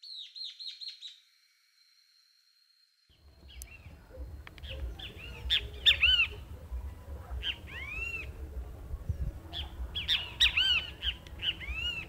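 Bird calls: a quick run of about five falling chirps opens, then after a short gap, clusters of arched calls that rise and fall in pitch repeat, loudest about six seconds in. A low steady rumble of background noise runs under the calls.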